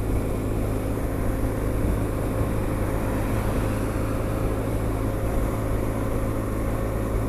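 Honda SH 300i scooter's single-cylinder engine running steadily at cruising speed, with constant wind and road noise.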